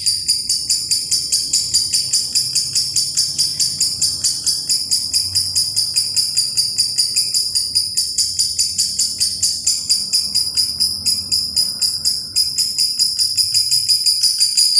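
Lovebird singing its ngekek, the long unbroken chattering trill kept lovebirds are prized for. It is high-pitched, with rapid even pulses at about six a second, and falters only briefly about twelve seconds in.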